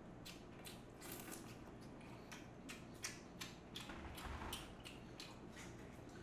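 Quiet close-miked chewing of a mouthful of noodles: a run of short, wet mouth clicks, about two or three a second.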